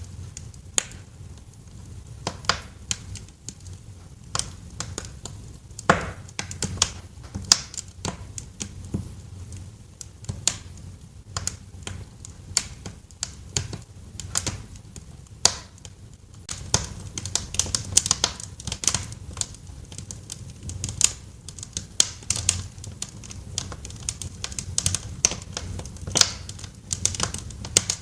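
Wood fire crackling in a fireplace: irregular sharp pops and snaps over a steady low rumble, the crackling growing denser a little over halfway through.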